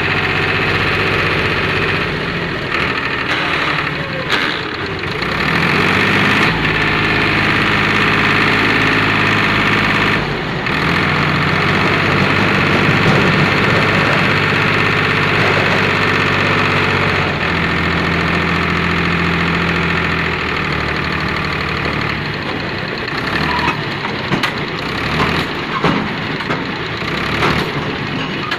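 Powertrac tractor's diesel engine running, its engine speed stepping up and down several times. In the last few seconds the sound turns uneven, with scattered knocks.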